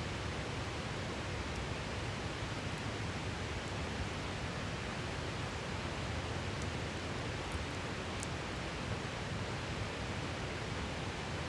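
Steady rushing of a river, with a few faint crackles from a wood campfire.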